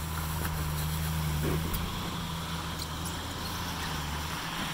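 Jeep Wrangler YJ's engine running with a low, steady note as it works its way up a snowy rock ledge; the note drops away near the end.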